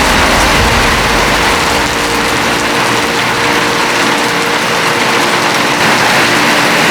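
Heavy tropical rain pouring down in a steady loud hiss, with a low rumble underneath that fades out about two seconds in.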